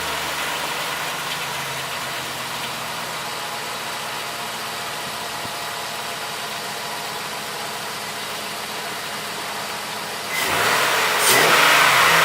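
Pickup truck's engine idling steadily just after starting on fresh oil, with a louder rush of noise near the end.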